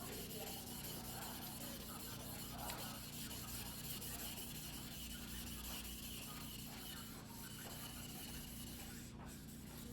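Mizuno Tanrenjo white-steel fuguhiki knife being rubbed by hand across a whetstone: a steady scraping, rubbing sound of steel on wet stone.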